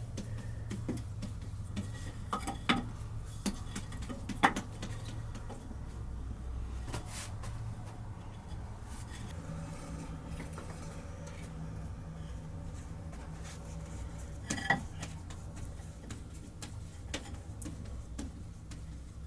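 Scattered clinks and knocks of cooking utensils against pots and dishes, a few sharper knocks standing out, over a steady low hum.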